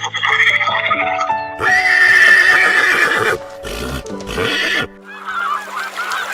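An animal's loud call, about two seconds long, starting about one and a half seconds in. It is followed by two short noisy bursts and then a run of quick, wavering calls. A simple melody plays underneath throughout.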